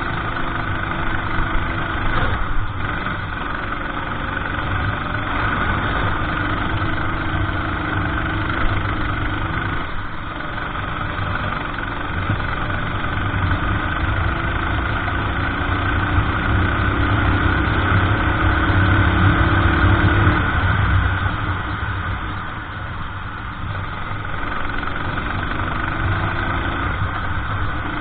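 Racing kart engine running at speed, its pitch repeatedly climbing as it accelerates and dropping off again, over a steady low rumble.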